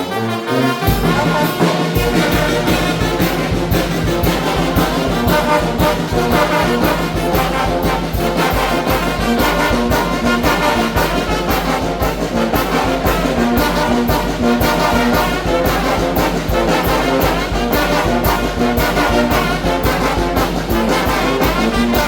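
Mexican brass band (banda) playing a huapango, with trumpets and trombones over a heavy tuba bass line and a steady drum beat. The band strikes up right at the start.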